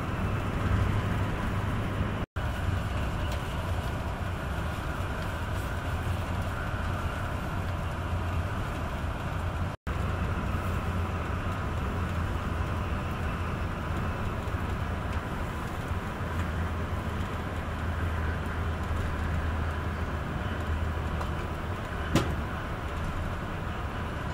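Steady running noise heard inside the passenger cabin of a Renfe AVE S-102 (Talgo 350) high-speed train: a low rumble with rail and air noise. The sound cuts out for an instant twice early on, and there is a single sharp knock near the end.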